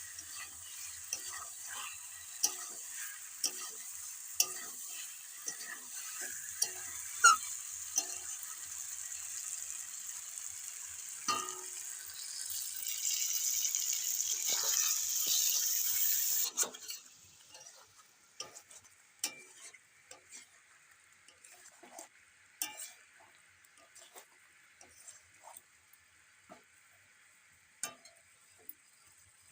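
Yogurt-marinated chicken sizzling in mustard oil in a kadai while a spatula stirs and scrapes it, with many short clicks of the spatula against the pan. This is the kosha stage, cooking the masala down until the oil separates. About halfway through, the sizzle swells louder for a few seconds and then drops off suddenly, leaving a faint sizzle and occasional taps.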